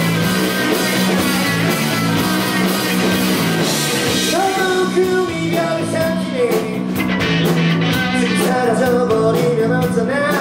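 Rock band playing live, electric guitars and drum kit over a steady bass line, with a melody line coming in about four seconds in.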